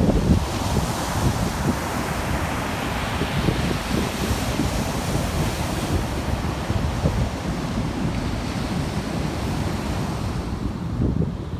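Wind buffeting the microphone: a steady rushing noise with a rough, fluttering low rumble underneath.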